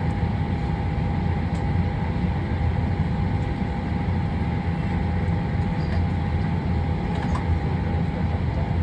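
Steady cabin noise of a Boeing 737-800 parked at the gate: the air-conditioning and ventilation running with a low rumble and a faint steady high hum.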